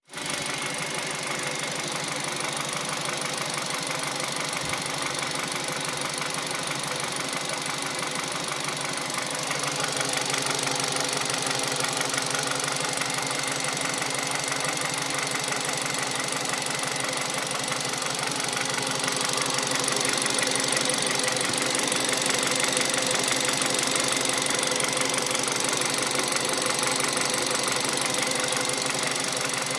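Hyundai Solaris 1.4-litre petrol engine idling cold with a fast, even knock running through it, a knock the owner hears only on a cold engine and cannot diagnose. It gets slightly louder about a third of the way in and again about two-thirds in.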